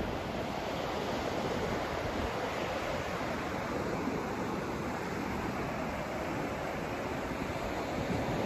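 Steady white-noise sleep track: an even, unbroken rushing hiss, fuller and deeper than a thin hiss, with no breaks or changes.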